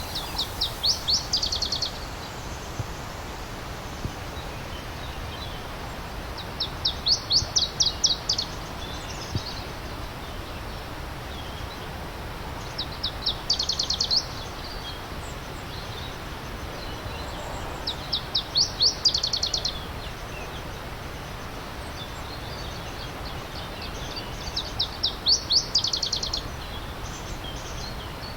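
A songbird singing the same song five times, about every six seconds: each a quick run of high repeated notes that speeds up and grows louder. Under it, the steady rush of a stream.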